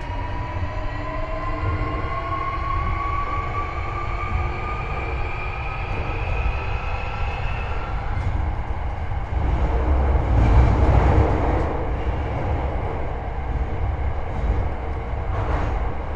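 Hankyu 8300 series car's Toyo IGBT-VVVF inverter and traction motors whining under power, several tones rising together in pitch as the train picks up speed. About eight seconds in the whine stops and the rumble of the wheels and bogie on the track takes over, swelling a little a few seconds later.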